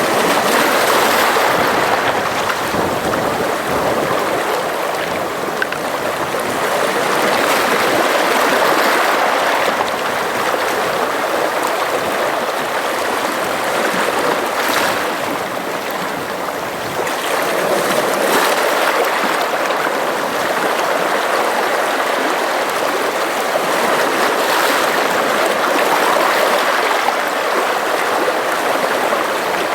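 Sea waves washing in and out, a continuous rushing that swells and eases every several seconds.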